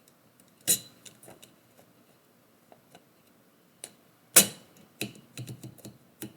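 Typewriter keys striking the paper in irregular keystrokes: a loud strike about a second in and another past the middle, with faint ticks between, then a quick run of lighter clacks near the end.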